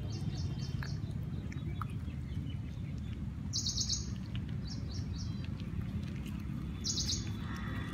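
Small birds chirping, with two bright bursts of rapid high chirps about three and a half and seven seconds in, over a steady low rumble.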